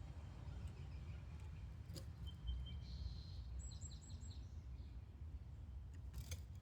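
Faint background rumble with a few light clicks, and a little past halfway a quick run of about five short bird chirps.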